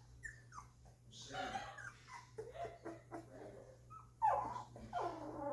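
Two-week-old golden retriever puppies whimpering and squealing in a series of short, high cries, the loudest starting about four seconds in.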